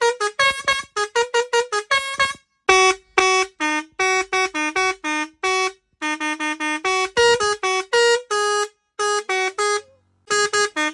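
A tune played in quick, short staccato notes on a truck's electric musical horn, each note a bright buzzy tone, with a brief pause about two and a half seconds in and another near the end.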